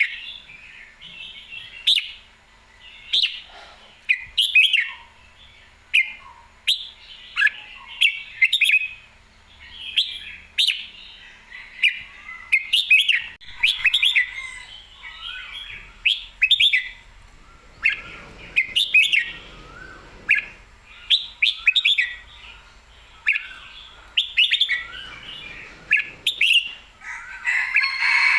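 Red-whiskered bulbul singing full and lively, in short chirped phrases repeated about once every second or so.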